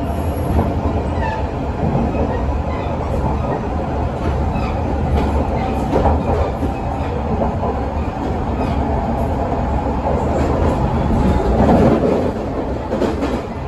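Running noise inside a JR Shikoku 8000 series electric express train travelling at speed: a steady rumble of wheels on rail with occasional clicks, getting a little louder near the end.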